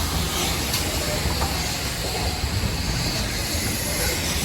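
Dartmouth Steam Railway steam train: a steady low rumble with a rushing noise over it and a few faint clicks.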